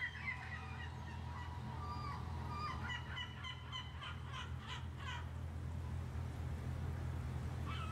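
Bird calls, a run of short repeated cries clustered in the middle, over a steady low hum.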